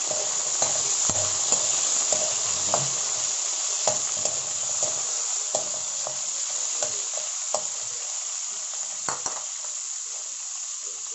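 Cubed carrots sizzling as they pan-fry in hot corn oil in a wok, with scattered clicks and scrapes of a metal spoon against the wok as the pieces are spread out. The sizzle eases off slightly towards the end.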